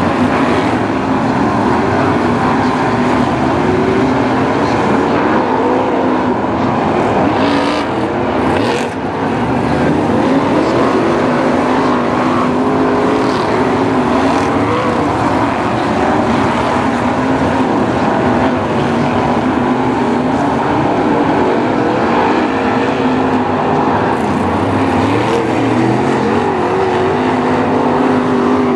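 A pack of BriSCA F1 stock cars racing, several V8 engines running hard at once, their pitches rising and falling as the cars accelerate and lift through the bends.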